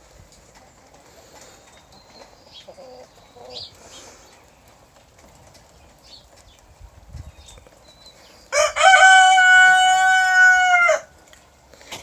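A loud, drawn-out crowing call, held on one pitch for about two and a half seconds, starts about eight and a half seconds in; before it there is only a quiet background with a few faint small sounds.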